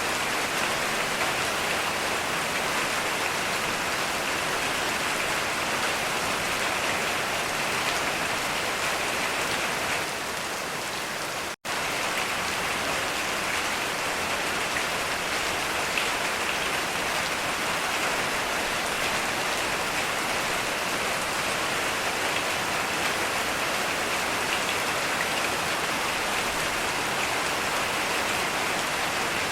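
Steady heavy rain falling. About a third of the way in, the sound dips slightly and cuts out for a split second, then resumes unchanged.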